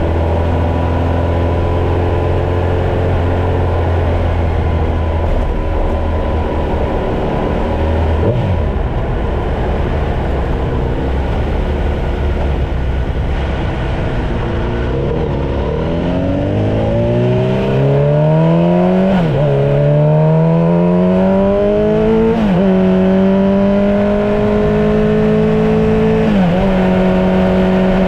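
Kawasaki Z900 motorcycle's inline-four engine, first running steadily at low revs, then accelerating hard through the gears: the pitch rises, drops back at each upshift, and rises again, three shifts in the second half.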